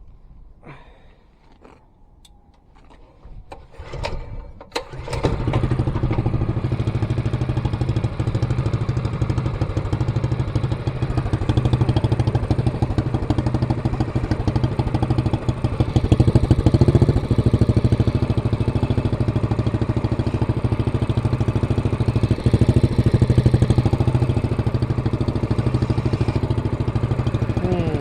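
Minibike's 212cc Predator single-cylinder four-stroke engine, fitted with an aftermarket carburetor and exhaust, starts about five seconds in and then runs steadily, a little louder around the middle. The carburetor still needs tuning.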